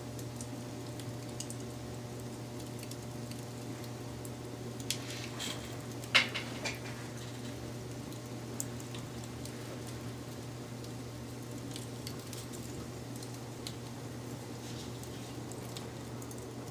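Wood fire burning, with a steady hiss and scattered crackles and pops. A cluster of louder pops comes about five to seven seconds in, the sharpest one about six seconds in. A steady low hum runs beneath.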